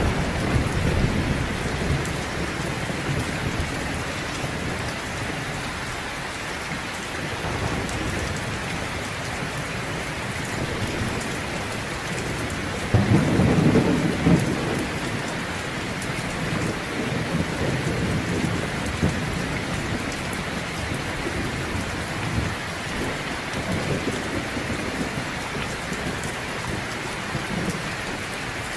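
Heavy rain falling steadily, with low rumbles of thunder and a louder thunderclap about halfway through.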